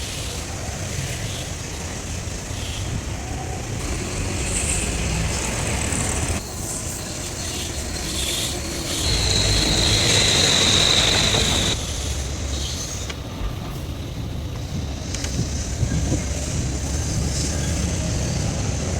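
Ashok Leyland truck running, a steady low engine rumble. About halfway through it grows louder for a few seconds, with a thin high whine over it.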